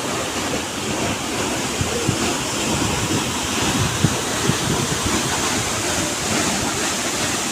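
Waterfall rushing steadily in an even roar of falling water, with a few brief low thumps, the loudest about four seconds in.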